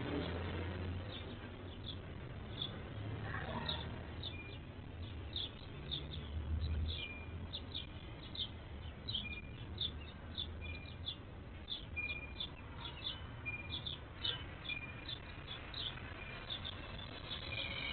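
Birds chirping: a steady, uneven stream of short, quick chirps, a few per second, with now and then a brief held note, over a low rumble.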